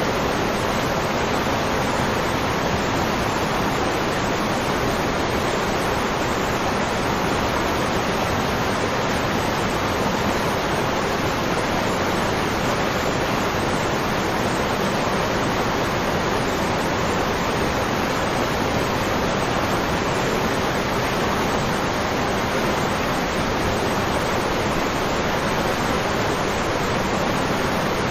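Waterfall, a steady, even rush of falling water with no change in level.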